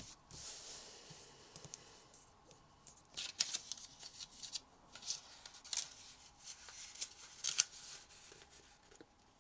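A sheet of origami paper being handled and folded: several short bursts of crisp rustling and creasing, which die away near the end.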